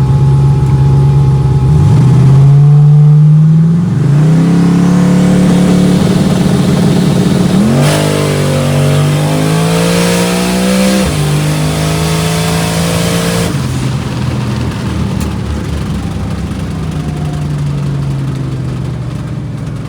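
Twin-turbo LS 5.3 V8 making a full-throttle drag pass on boost. The engine holds a steady note, then pulls hard with its pitch climbing through the gears, dropping at upshifts about 4, 8 and 11 seconds in. Near 13.5 seconds the throttle lifts and the engine winds down to a lower, coasting note.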